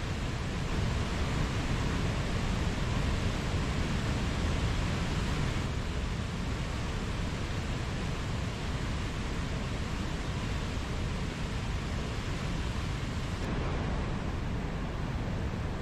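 Mountain stream rushing steadily: an even, full water noise with a strong low rumble and no breaks.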